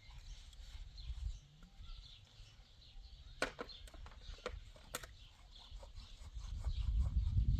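Small birds chirping, with a few sharp knocks a little past the middle and a low rumble building near the end.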